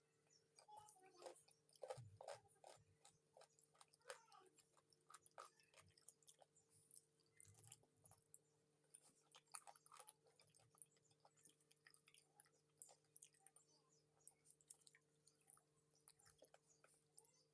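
Faint close-up chewing and biting on chicken feet: many irregular wet clicks and small crunches, over a faint steady hum.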